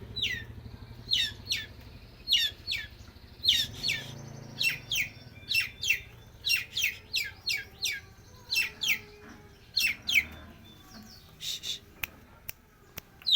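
Long-tailed shrike (cendet) singing vigorously: a long run of sharp, high chirps, each falling steeply in pitch, repeated one to two a second. It is delivering its mimicked song material, with a thin, steady high note running under the chirps for a few seconds.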